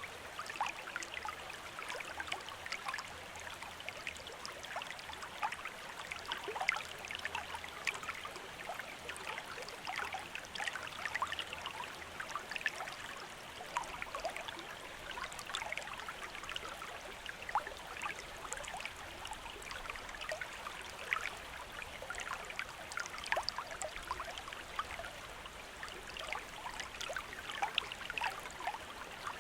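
A small stream of running water, babbling and trickling steadily over stones with many small splashes.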